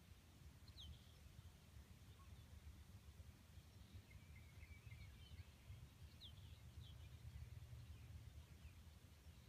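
Near silence outdoors: a faint steady low rumble, with a few faint, short downward-sliding bird chirps, once about a second in and a couple more later on.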